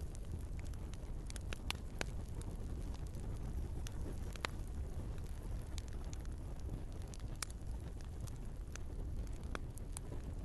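Wood fire burning in a fireplace: a steady low rumble of the flames with irregular sharp crackles and pops from the logs, several louder pops scattered through.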